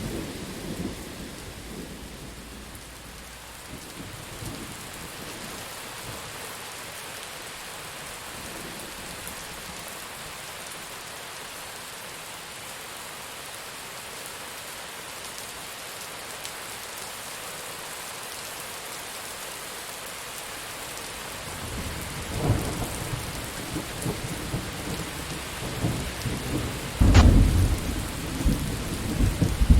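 Steady rain falling, with thunder. A rumble dies away at the start, then about twenty seconds of rain alone. Then thunder rumbles in again, with a sharp crack about 27 seconds in and rolling rumble after it.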